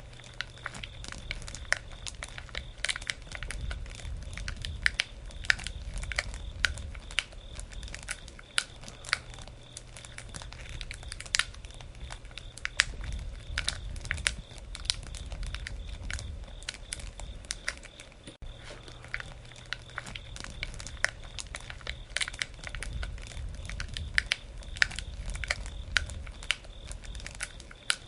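Campfire burning and crackling: irregular sharp pops and snaps over a low rumble of the fire.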